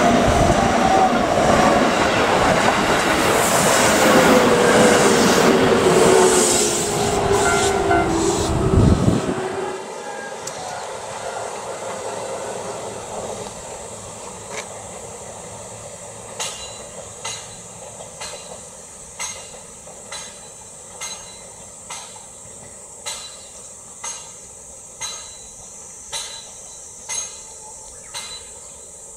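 An electric commuter train passing close by, loud, with a tone that falls steadily in pitch; it cuts off suddenly about nine seconds in. The rest is a quiet steady background with a faint high drone and a sharp click about once a second.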